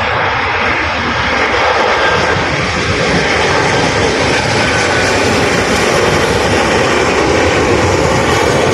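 Airliner passing close by, its engines loud and steady.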